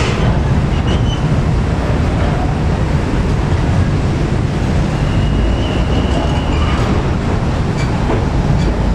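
A train passing close by: a loud, steady rumble of wheels running on the rails, with a thin high whine from about five seconds in that lasts over a second.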